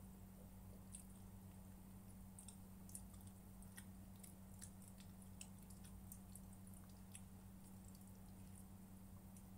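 Faint, irregular wet mouth clicks and chewing of someone eating, over a steady low electrical hum.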